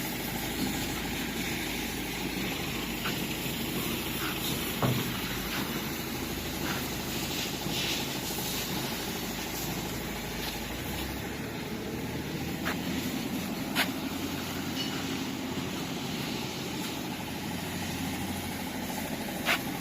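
Small diesel engine running steadily, with a few sharp metallic knocks from the machine.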